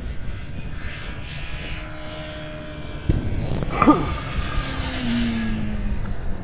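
Superbike racing motorcycle engine accelerating hard. About three seconds in it gets suddenly louder and its pitch climbs sharply, then the pitch falls away as it goes by.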